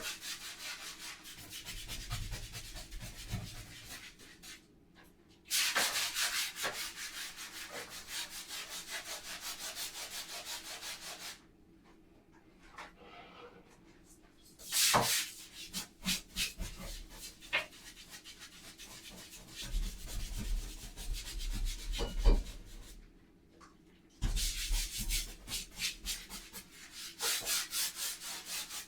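Scrubbing a bathroom surface in quick back-and-forth strokes, in spells of a few seconds with short pauses between.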